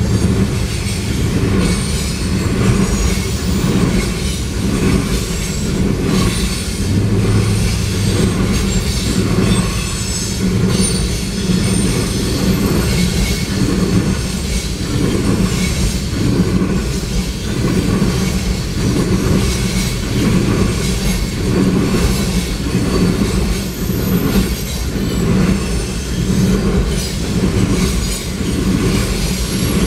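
Freight train tank cars rolling past at a grade crossing: steel wheels rumbling steadily on the rails, with a repeating clickety-clack as the wheels pass over joints.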